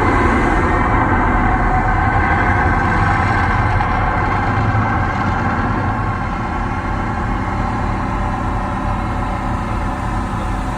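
A steady, loud rumbling noise that eases off slightly toward the end.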